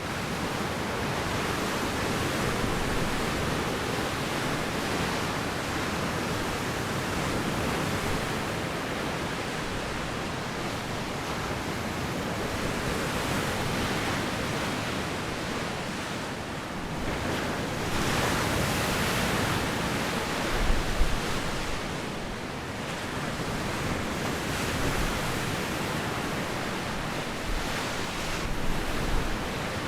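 Sea surf washing on the shore with a soft wind: a continuous rush of waves, one swelling louder around two-thirds of the way through. A couple of brief low gusts of wind hit the microphone near the end.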